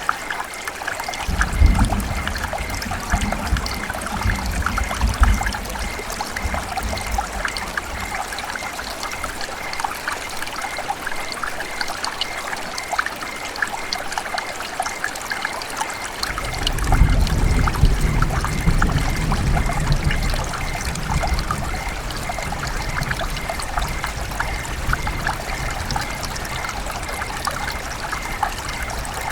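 River water trickling and splashing in a steady stream, a dense patter of small splashes. Two stretches of low rumble come and go, the first about two seconds in, the second just past the middle.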